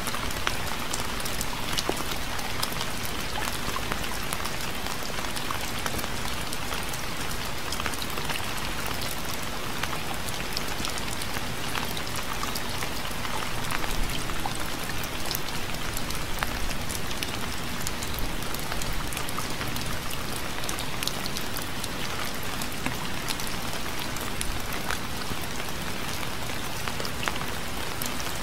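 Steady rain falling on a surface, a constant hiss with many separate drop ticks.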